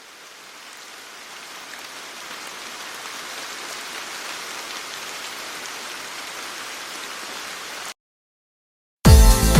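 Heavy downpour of rain, a steady hiss that swells over the first few seconds and then holds, cutting off suddenly near the end. After about a second of silence, loud electronic music with a beat starts.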